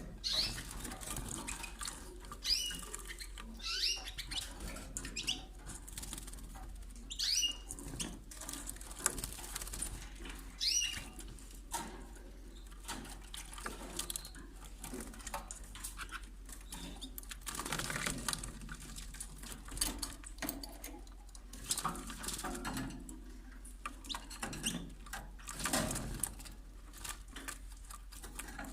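Canaries bathing: a quick run of small splashes and wing flutters in the water, with a short chirp every few seconds.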